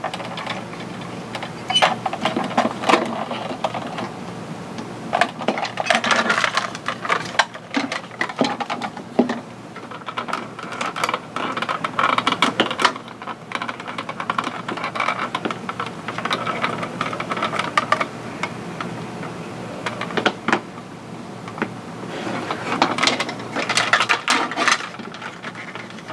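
Hands taking apart a plastic toy X-wing with a small screwdriver: irregular clicks, rattles and scraping of plastic parts and screws throughout.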